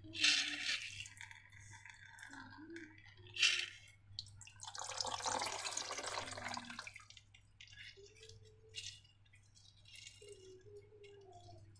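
Wet slime being squished and handled: short sticky clicks and drips, with a longer squelching stretch about five seconds in.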